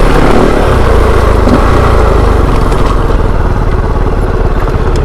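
Kove 450 Rally dirt bike's single-cylinder engine running steadily under throttle while riding.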